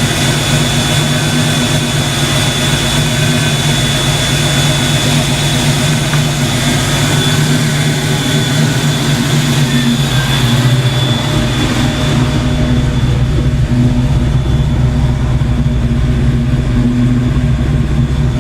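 Fox Body Mustang engine idling steadily with its electric radiator fans running. About twelve seconds in, the high airy hiss drops away and a deeper rumble grows.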